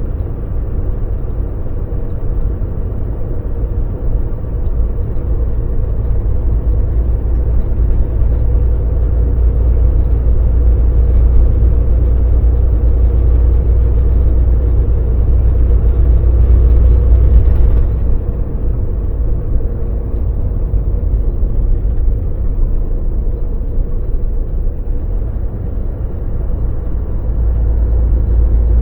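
Cab noise of a Volvo VNL semi truck on the move: a steady low diesel engine drone with road rumble. It grows louder through the first half, then eases off abruptly about eighteen seconds in.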